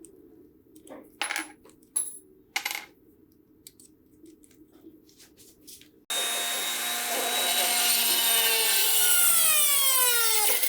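Sharp metallic clicks and clinks of small parts being handled, three of them louder and about a second apart. About six seconds in, a small electric power tool starts abruptly and runs with a whine whose pitch falls steadily until it drops away at the end.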